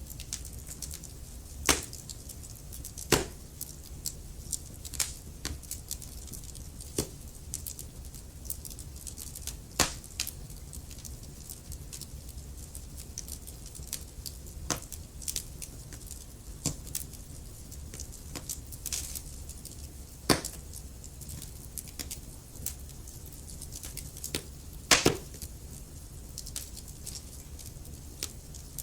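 Wood fire crackling in a fireplace: irregular sharp pops and snaps over a low, steady rumble, with a few much louder pops scattered through.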